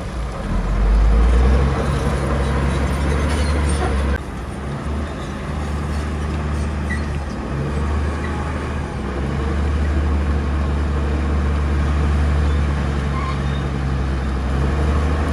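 Bulldozer's diesel engine running with a steady low drone; the sound drops abruptly about four seconds in, then carries on steadily.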